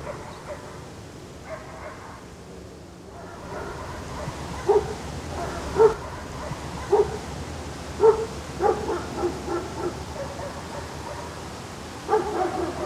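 Short, repeated animal calls over steady background noise: single calls about a second apart from about five seconds in, then a quicker run, and another cluster near the end.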